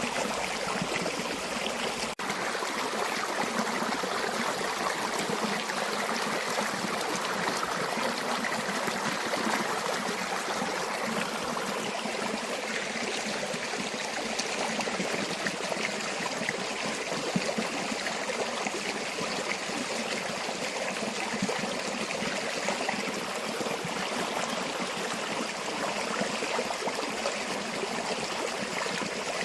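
River water flowing steadily, a continuous even rush with no change in strength. There is a brief dropout about two seconds in.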